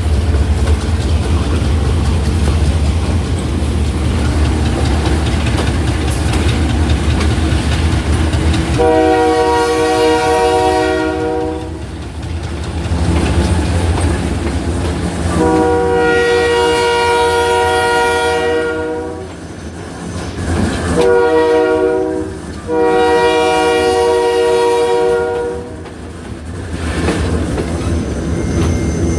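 A passenger train rumbling along the track, with wheels clicking over rail joints. About nine seconds in, the diesel locomotive's air horn sounds long, long, short, long, the standard signal for approaching a grade crossing.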